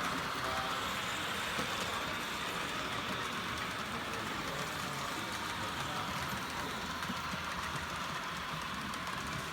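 Märklin H0 model train of an Ae 6/6 locomotive and coaches running along the track: a steady whir of the small motor and wheels rolling on the rails, with faint continuous clicking.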